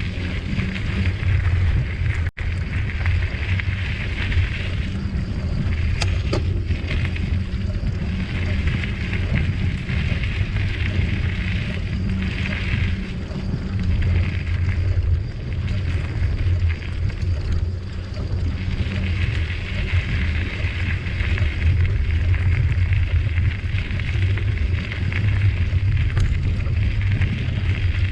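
Wind rumbling on the microphone together with the rolling hiss of a bicycle's tyres on the trail as it rides along; the hiss swells and fades every few seconds. The sound cuts out briefly a little over two seconds in.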